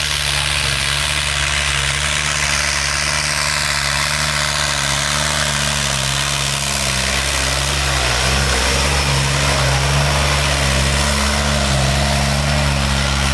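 Tractor diesel engine running steadily, its pitch shifting and the sound growing a little louder about eight seconds in.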